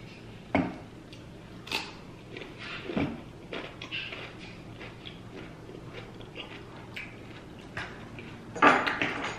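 Close-up eating sounds: scattered wet clicks and smacks of chewing, with a louder bite near the end.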